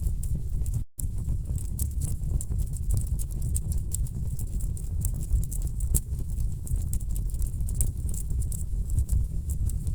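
Wood fire burning in a fireplace: a steady low rumble of the flames with dense, irregular crackles and pops from the logs. The sound cuts out completely for a split second about a second in.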